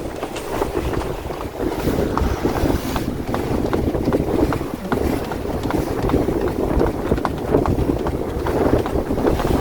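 Wind buffeting the microphone over the wash of choppy water around a sailboat under sail, with many small, quick splashes throughout.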